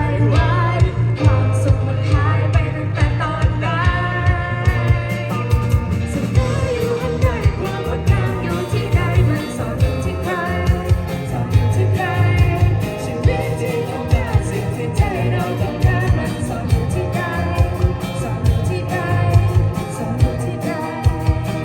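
A pop-rock band playing a song, with a singer's voice over a steady beat and heavy bass.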